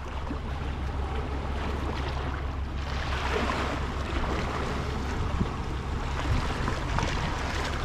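Sea water washing against shore rocks, with a steady low rumble of wind on the microphone; the wash swells louder about three seconds in.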